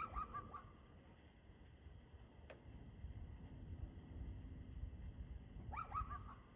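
A dog barking faintly: a short burst of barks at the start and another near the end. There is a single sharp click in between.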